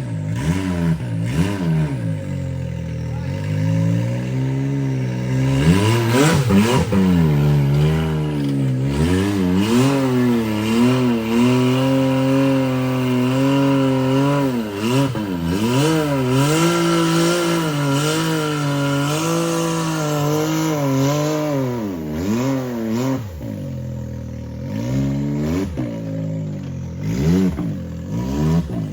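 Side-by-side UTV engine revving up and down over and over as it crawls up a rocky climb, with occasional knocks from the machine working over the rocks.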